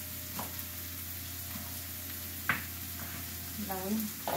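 Onion frying in a pan with a steady sizzle, broken by a few sharp knocks of a utensil, the loudest about two and a half seconds in.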